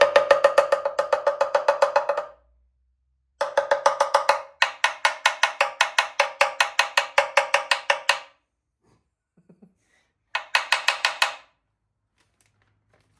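Power tool, likely an impact wrench, hammering in four bursts of rapid ringing blows, about eight to ten a second, with silent pauses between them, while fasteners are being run off engine parts.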